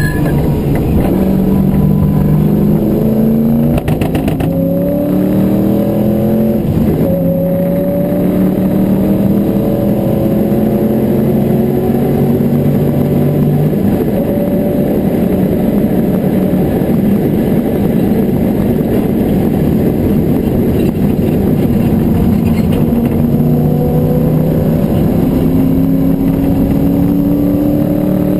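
Porsche 928's V8 engine heard from inside the cabin while racing, its pitch climbing under acceleration and dropping abruptly at gear changes, with a steadier stretch about halfway through before climbing again near the end.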